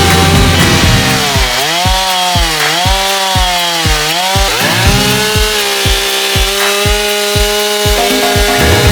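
Stihl MS 241 two-stroke chainsaw cutting into a log, its engine pitch dipping twice under load and recovering, as the rough shape is blocked out. Background music with a steady beat plays along.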